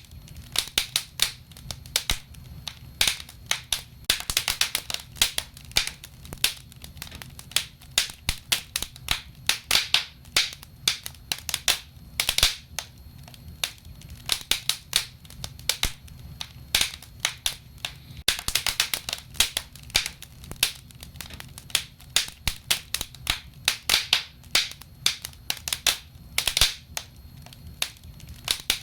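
Wood fire crackling in a fireplace: irregular sharp pops and crackles, some coming in quick clusters, over a low steady noise from the burning.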